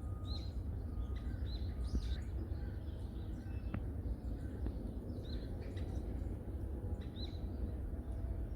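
Small forest birds chirping: short, high, clipped calls every second or two, over a steady low rumble.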